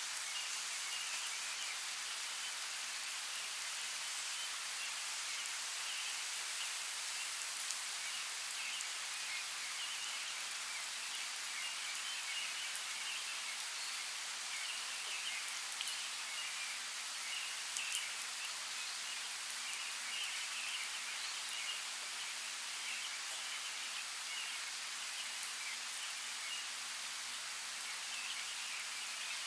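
Steady rain, an even hiss of falling water with a few sharper drop ticks.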